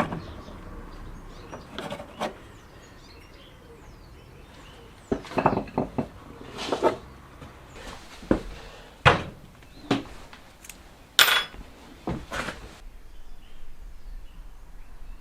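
Hand tools and metal parts clinking and knocking while the heater fan is taken out of a car: a run of small clatters about five to seven seconds in, then sharp single knocks roughly once a second towards the end.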